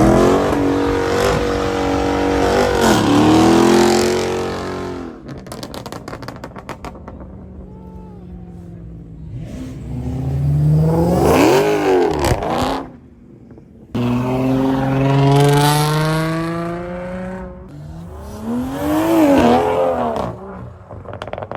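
Car engines revving hard and accelerating away in a series of launches: about four separate bursts, each climbing in pitch and then falling away, with sudden breaks between them.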